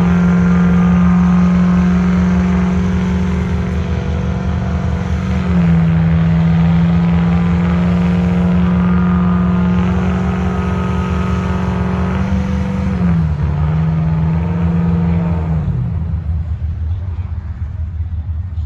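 Diesel pickup truck engine held at high revs under heavy load during a sled pull. Its pitch sags slightly twice as it labours, then it drops off and fades about sixteen seconds in as the throttle is let off.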